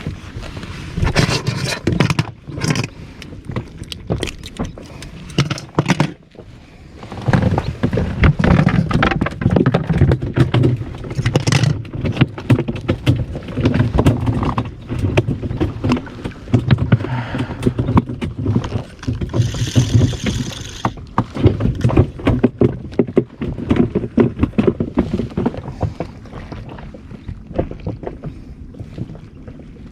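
Irregular knocks, clicks and scrapes aboard a small inflatable boat at sea, over a low rumble of water against the hull, with a short hiss about two-thirds of the way through.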